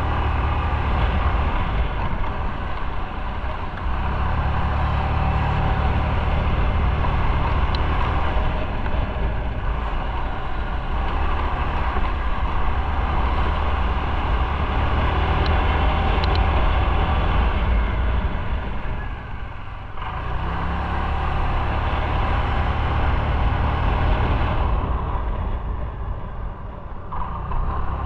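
Motorcycle running on the road, engine and riding noise steady, easing off briefly about two-thirds of the way through and again near the end.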